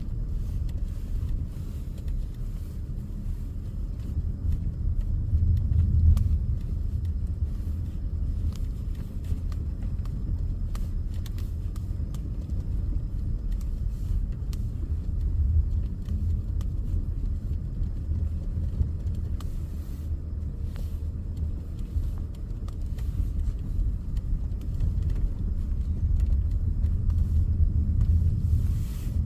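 Steady low rumble inside a car's cabin as it drives slowly through deep, rutted snow, the engine and tyres droning with gentle swells.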